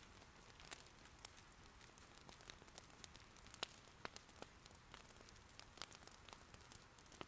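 Faint, steady rain patter with scattered sharp crackles and pops from firewood burning in an irori hearth, irregular, about a dozen in all, the loudest a little past halfway.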